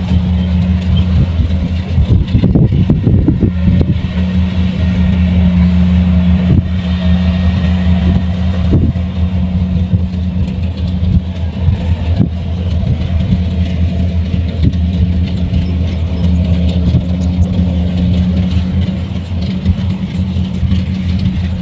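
Kubota rice combine harvester's engine running steadily under load, a constant low hum with scattered knocks and rattles from the machine.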